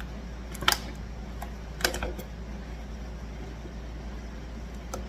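A few light clicks and taps from a silicone mold and a cured resin casting being handled, the two sharpest about a second apart near the start, over a steady low hum.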